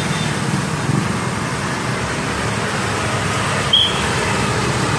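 Steady road-traffic noise, with one short, high whistled note from a hill myna about three-quarters of the way through.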